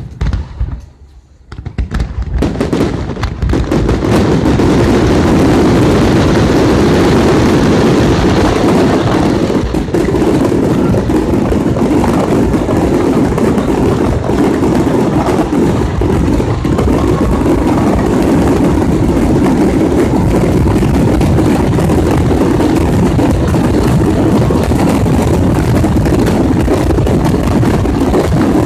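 Aerial fireworks going off: a few separate bangs at first, then from about three seconds in a dense, continuous barrage of overlapping booms and crackles.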